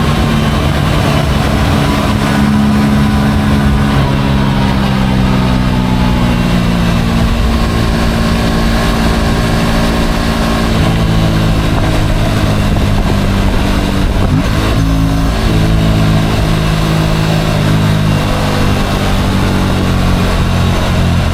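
Motorcycle engine running at low speed in city traffic, its pitch drifting slowly up and down, with little wind noise.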